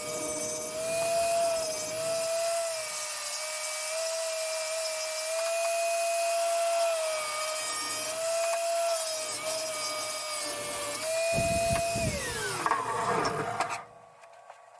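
Electric power tool motor running with a steady high whine that dips slightly in pitch now and then as it is loaded. It is switched off about twelve seconds in and winds down with a falling whine.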